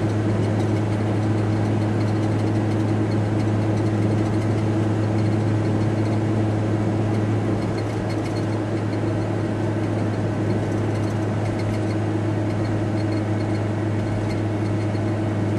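Steady drone of a VW T4 Transporter van driving at speed, heard inside the cab: engine and road noise with a strong, even low hum.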